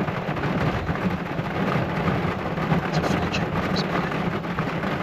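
Heavy rain on the truck's roof, heard from inside the cab: a steady low drumming with scattered sharper drop ticks.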